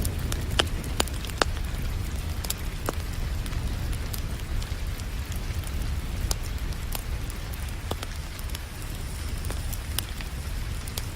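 Wood fire crackling, with sharp pops at irregular intervals, over the steady hiss of falling rain and a continuous low rumble.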